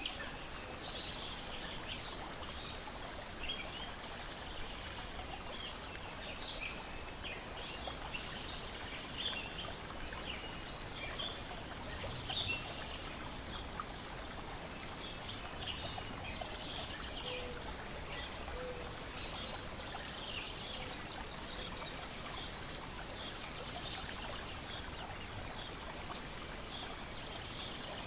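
Lake water lapping and splashing in a steady wash, with small birds chirping and singing throughout.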